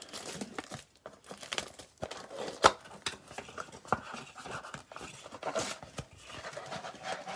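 A trading-card blaster box being opened by hand: its wrapping and cardboard torn and crinkled, with the packs inside handled. Irregular tearing and crinkling with scattered sharp clicks, the loudest a little over two and a half seconds in.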